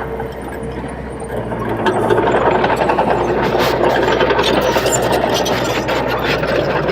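Komatsu D30P bulldozer's diesel engine running under load, getting louder about two seconds in, with scattered clanks and rattles.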